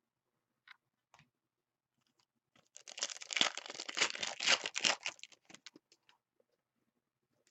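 A trading-card pack wrapper being torn open: a crackly tearing and crinkling that lasts about two and a half seconds, with two light clicks before it.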